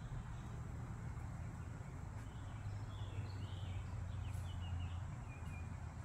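A few faint bird chirps in the middle of the stretch, over a steady low rumble.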